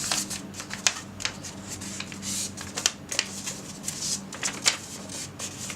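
A square sheet of origami paper being folded and creased by hand: irregular rustling broken by several sharp crackles.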